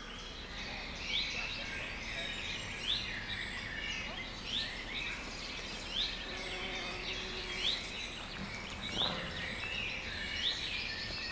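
Outdoor ambience: a bird repeats a short, rising call about every second and a half over steady background noise.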